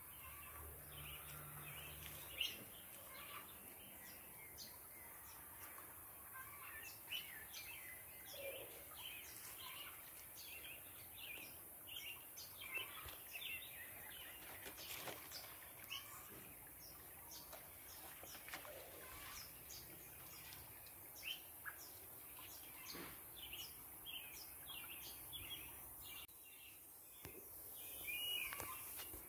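Small birds chirping, many short calls, faint over a steady high hiss.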